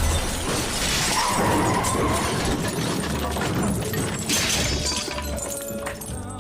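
Sedan crashing into a house: glass shattering and debris breaking and crashing, with a second burst of smashing glass about four seconds in, over a music score with a low steady bass.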